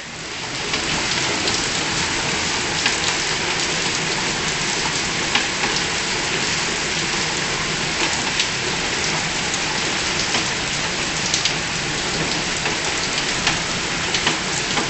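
Heavy rain pouring steadily onto stone paving: an even hiss with scattered sharper drops and splats.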